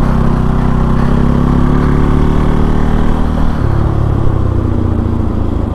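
Bajaj Pulsar NS 200's single-cylinder engine running under way, with a steady engine note that shifts in pitch about three and a half seconds in as the throttle or gear changes.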